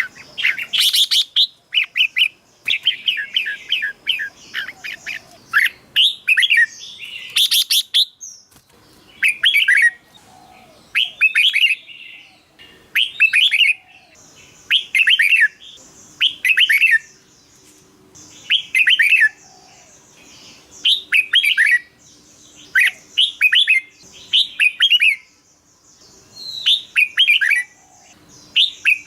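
Red-whiskered bulbul singing: short, bright whistled phrases repeated every second or two. A steady high hiss runs beneath the song from about halfway through.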